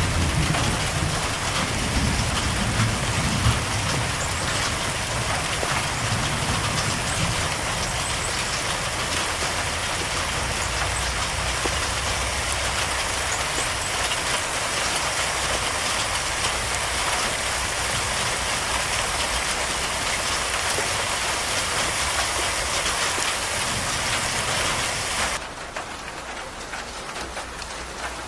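Steady heavy rain falling, with a low thunder rumble dying away over the first few seconds. About 25 seconds in, the sound changes abruptly to quieter, lighter rain with less low rumble.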